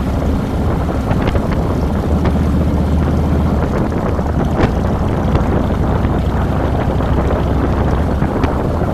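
Harley-Davidson Fat Boy's V-twin engine running steadily under way, with wind rushing over the handlebar-mounted microphone.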